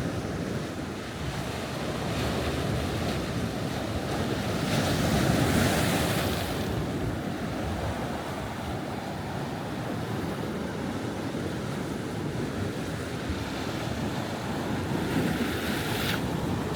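Sea waves at high tide breaking and washing up the beach, with wind rushing over the microphone. The surf swells louder about five seconds in and again near the end.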